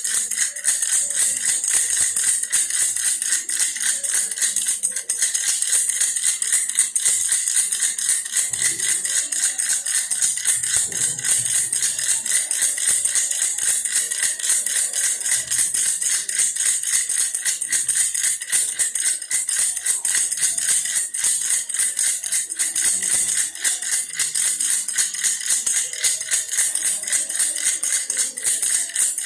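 Baby's toy bear rattle shaken steadily and rapidly, a continuous bright rattling with a faint steady ring.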